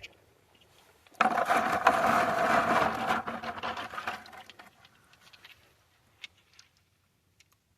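Rainwater poured and splashing over rocks, starting suddenly about a second in, loud for about two seconds, then tapering off, with a few faint ticks afterwards.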